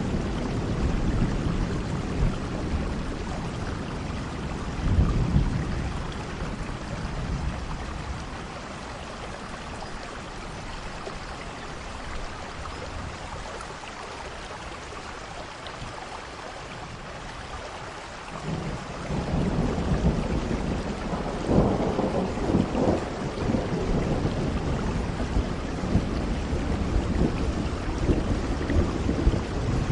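Steady rain with rolling thunder. Low rumbles in the first few seconds die away to rain alone, then a long, louder thunder rumble builds up about two-thirds of the way in and keeps going.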